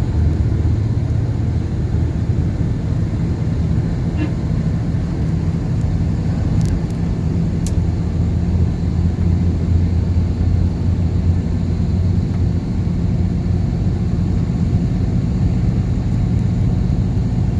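Steady low rumble of a vehicle in motion, with a couple of small clicks about seven seconds in.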